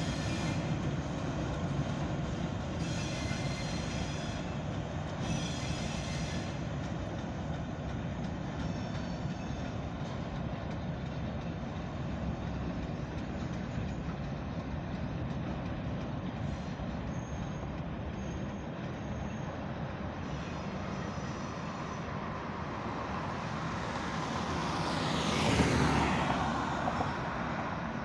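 Freight train of tank cars rolling past with a steady rumble and squealing wheels, the squeal coming in several short bursts in the first few seconds. Near the end a car drives past close by, its noise rising and falling away.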